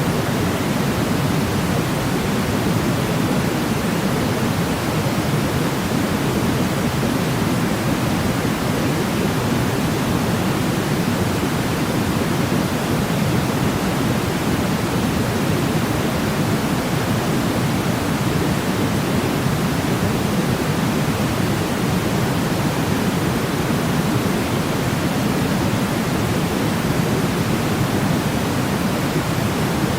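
Steady sleep-aid noise, a deep, even hiss weighted toward the low end, with no change or break.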